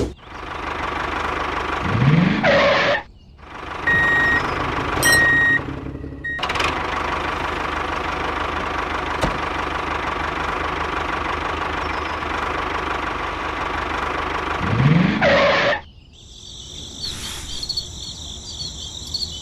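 Tractor engine running steadily, with a couple of brief breaks and a few short high beeps about four to six seconds in. About sixteen seconds in the engine stops and crickets chirp.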